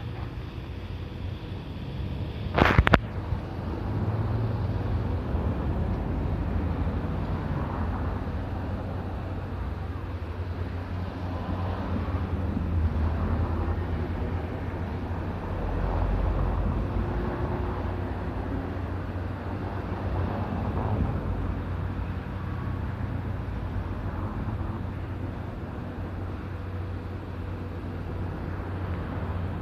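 Low, steady rumble of a train running through a level crossing, with wind on the microphone and one sharp click about three seconds in.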